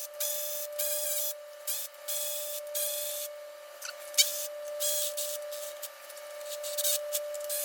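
Hand tools working on the head bolts of a GM LQ4 V8: about a dozen short, quick rasping bursts over a steady high-pitched hum, with no low end to the sound.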